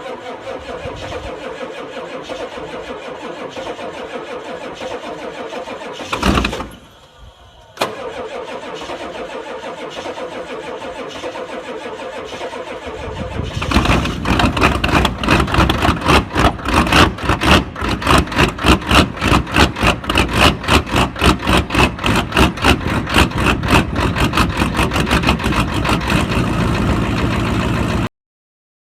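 Ford F-350 diesel truck cold-starting at −9 °C. A steady mechanical sound runs for the first half, broken by a brief loud burst and about a second of near quiet. From about halfway a louder, evenly pulsing engine beat sets in and gradually quickens until the sound cuts off.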